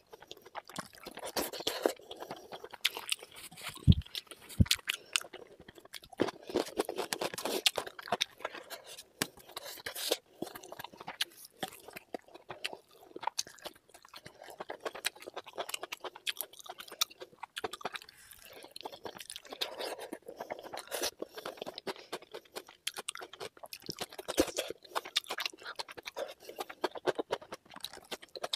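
Close-miked chewing of mouthfuls of rice and chicken skin curry eaten by hand, with irregular crunching and wet mouth clicks and smacks.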